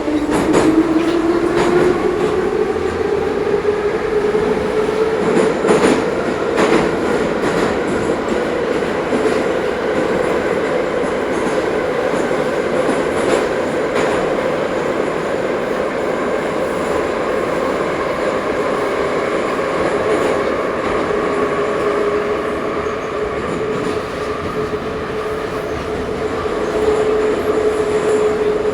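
Ezh3 metro car running between stations. A whine rises in pitch as the train gathers speed and then holds steady, under the rumble of the wheels on the track, with a few knocks from the wheels over rail joints.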